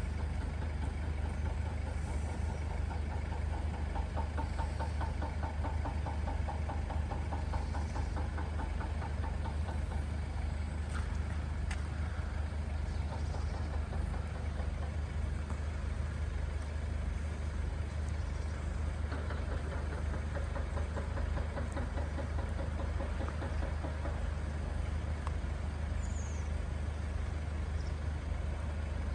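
Vehicle engine idling steadily, a constant low hum, under the hiss of falling rain.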